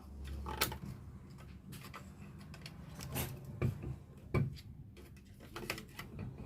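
Irregular sharp metallic clicks and knocks of hand tools and parts during the dismantling of a car alternator, about six separate knocks over a low steady hum.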